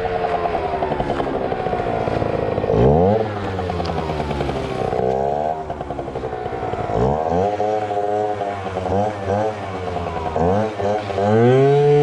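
Yamaha ZR Evo two-stroke scooter engine revving up and easing off several times as it is ridden, its pitch rising and falling with the throttle.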